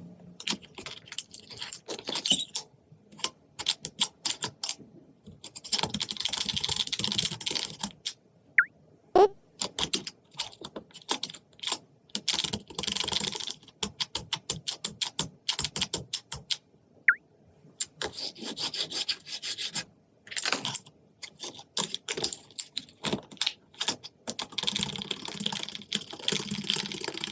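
Rapid clusters of small clicks and taps with patches of rustling noise, broken by two short rising chirps and a brief sliding tone.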